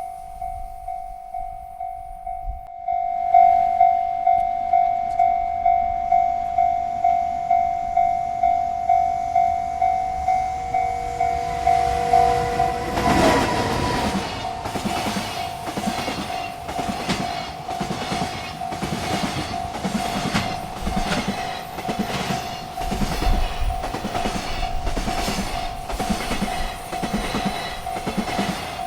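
Railroad crossing bell ringing about twice a second, getting louder about three seconds in. About thirteen seconds in, a freight train arrives and its wagons rattle past with a rhythmic clickety-clack while the bell keeps ringing underneath.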